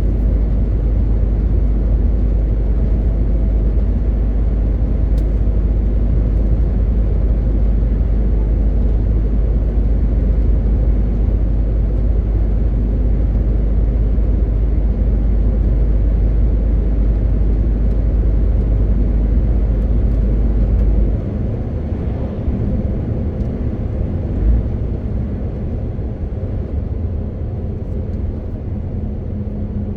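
MAN TGX 18.520 truck's six-cylinder diesel engine running under way with road and tyre noise. A deep low drone drops away about two-thirds of the way through and the sound gets quieter, with a brief low thump a few seconds later.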